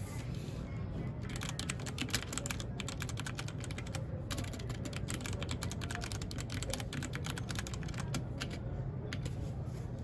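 Typing on a mechanical keyboard: quick runs of keystroke clicks, with a brief pause about four seconds in, thinning to a few scattered keystrokes near the end.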